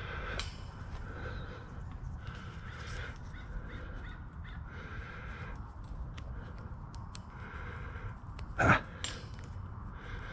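A bird calling over and over with short, harsh calls roughly once a second, and one much louder short, sharp sound about three-quarters of the way through.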